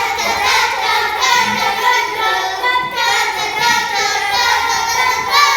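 Music with a high, child-like singing voice, loud and starting abruptly as an edited-in jingle.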